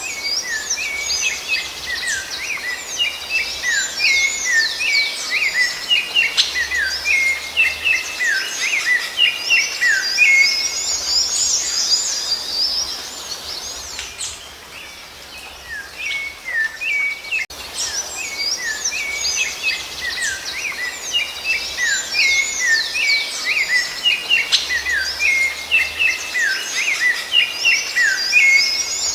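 Rufous-bellied thrush (sabiá-laranjeira) singing a fast run of short whistled and chirping notes, with a lull about 14 seconds in before the song picks up again.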